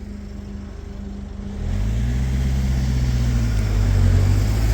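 Road vehicle engine pulling away close by: a low hum that swells about a second and a half in, rising slightly in pitch, then runs steadily. This is traffic moving off over the level crossing once the barriers have gone up.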